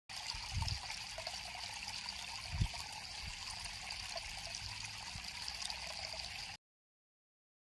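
River water flowing in a steady rush that starts abruptly and cuts off suddenly about six and a half seconds in, with a couple of low bumps early on in the first three seconds.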